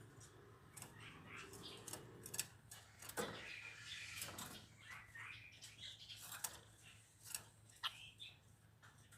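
Caged pancawarna songbird making faint, scattered short chirps amid many sharp little clicks, over a steady low hum.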